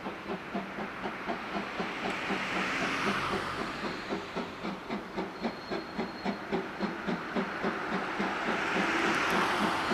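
C11 class steam tank locomotive (No. 325) running with a train, giving an even run of rapid beats about four to five a second, with steam hiss that swells twice, a couple of seconds in and near the end.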